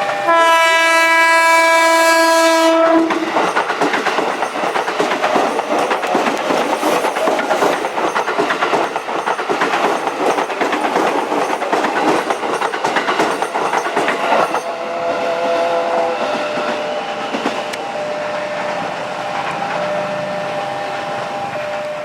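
A train horn blasts for about two and a half seconds. Then a train passes close by, its wheels clattering rhythmically over the rail joints for about eleven seconds. The clatter stops suddenly, leaving a quieter rumble and a steady tone.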